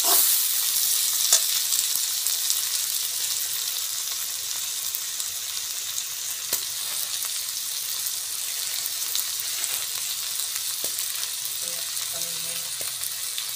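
Onions and tomatoes sizzling in hot oil in a kadai: a steady frying hiss, easing off slightly, with a few light clinks of the steel ladle against the pan as it is stirred.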